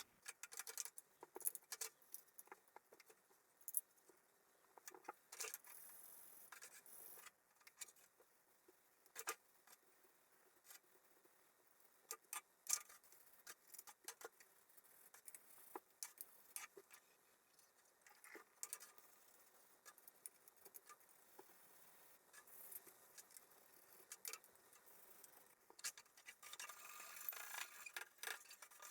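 Faint, irregular clicks, taps and light scrapes of small parts being handled, busier near the end.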